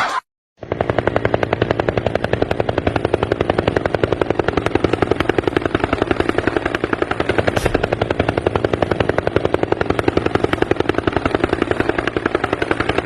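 Helicopter rotor blades chopping in a rapid, even beat, starting about half a second in after a moment of silence.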